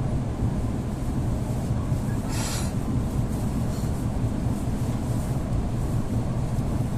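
EP2D electric multiple unit running, heard from inside the passenger car: a steady low rumble. A short hissing burst comes about two and a half seconds in.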